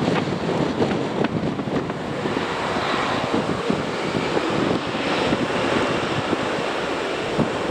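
Wind buffeting the microphone over the steady rushing of a jet airliner's engines.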